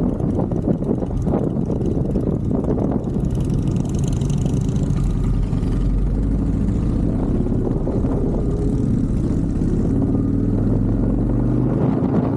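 Motorcycle engine running under way, a steady low rumble; over the last few seconds its pitch climbs steadily as it gains revs.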